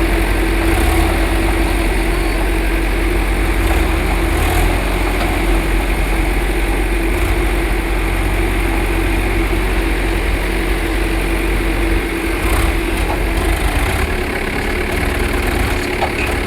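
Tractor engine idling steadily: a constant low rumble with a steady hum.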